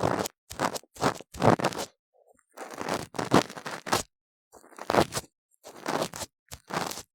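Ear-cleaning tool scraping firmly inside a silicone ear model, close to the microphone. It makes about ten short crunchy, scratchy strokes with brief pauses between them.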